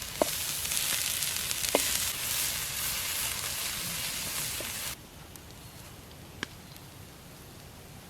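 Food frying in hot oil, a dense sizzle with a few sharp pops. It cuts off abruptly about five seconds in, leaving a quieter background with a few faint ticks.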